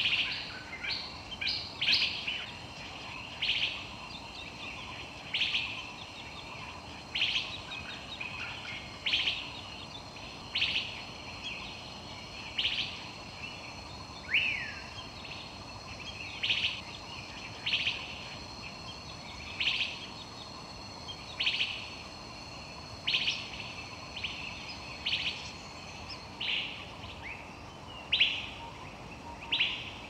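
A bird giving short, sharp chirping calls over and over, about one every second and a half, some sliding down in pitch, over a faint steady high tone.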